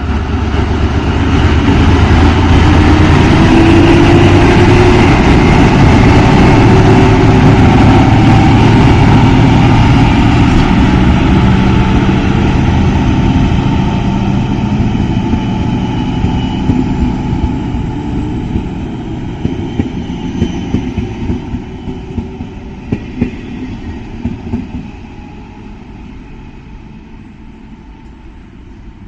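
Diesel passenger train pulling away from a station, its engine running loud and rising in pitch as it accelerates. It then fades into the distance, with wheels clicking over rail joints in the second half.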